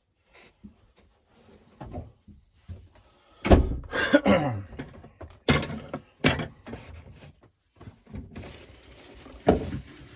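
A string of knocks and thuds, with rustling and scraping between them, as things are handled and moved about in a small room; the loudest thud comes about three and a half seconds in.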